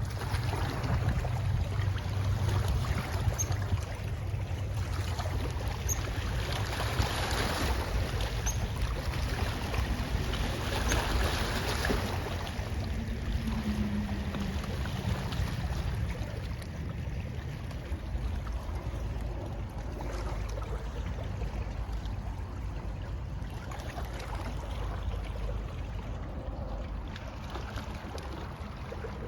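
Boat under way on a lake: a steady low rumble with water rushing and wind.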